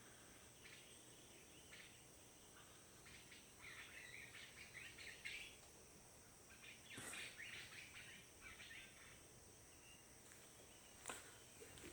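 Faint bird chirps in short scattered clusters, over a steady high hiss.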